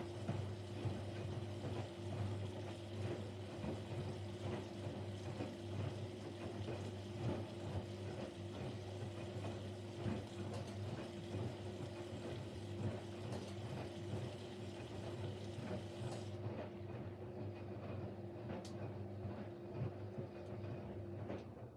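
Siemens Siwamat Plus 574 front-loading washing machine running its first rinse: a steady hum with rushing water and small ticks. The hiss drops out about three-quarters of the way through, and the whole sound cuts off at the very end.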